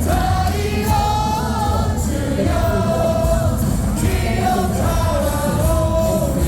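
Large baseball stadium crowd singing a cheering song together in long held notes, over loud backing music.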